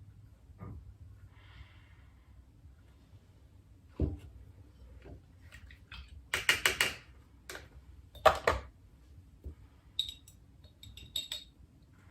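Art supplies being handled on a work table: a sharp knock, two short rattling clatters, then a few light clinks of hard objects.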